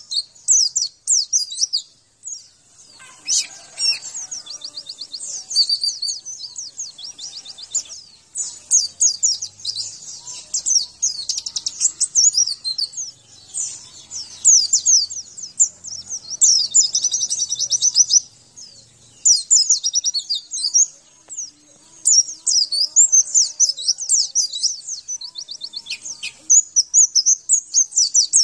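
White-eye (pleci) song: long runs of rapid, high-pitched twittering and trills with short pauses between bursts. This kind of master recording is played to caged white-eyes to get them singing.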